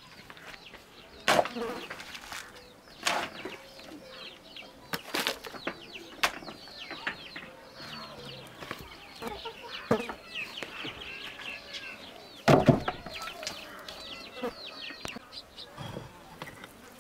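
Birds chirping over and over in short falling peeps, with several sharp knocks, the loudest about twelve and a half seconds in.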